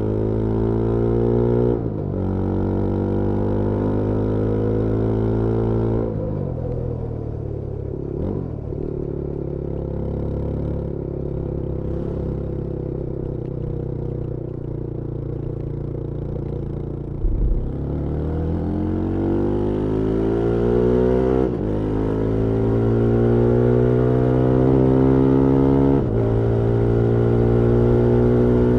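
Yezdi Scrambler 350's 334cc single-cylinder engine and exhaust under way. It pulls through the gears, its pitch climbing and dropping at each upshift, then runs at low revs for a while before accelerating again through two more upshifts.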